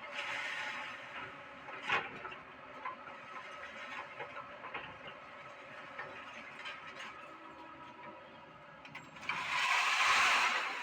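Doosan excavator running steadily, its engine and hydraulics making a constant mechanical hum with small clicks. There is a sharp metal clank about two seconds in and a louder rushing noise near the end.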